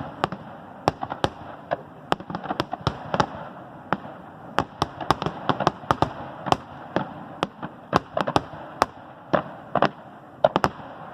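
Aerial fireworks going off in a fast, irregular barrage of sharp bangs and crackles, several a second, over a steady rumble: the finale of a fireworks display.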